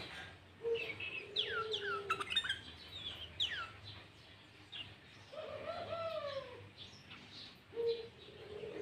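Sooty-headed bulbul calling in rapid bursts of quick, falling whistled notes, used as a lure song. Lower, drawn-out calls sound beneath them near the start, in the middle and near the end.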